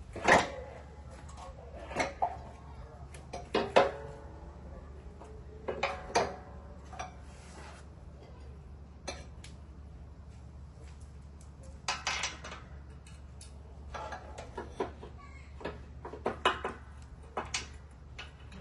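Metal tools and mower parts clinking and clanking in irregular knocks, some in quick pairs, each ringing briefly, over a steady low hum.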